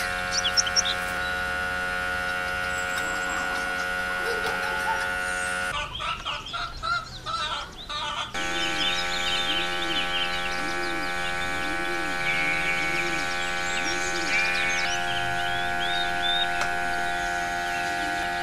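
A steady electric motor hum made of several held tones, plausibly the air supply of the home-made hot-air soldering iron. It drops out for about two seconds midway and then carries on, with faint chirps over it.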